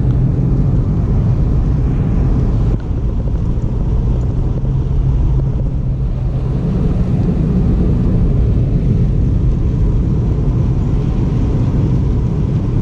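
Steady road and engine noise heard inside a moving car's cabin: an unchanging low hum.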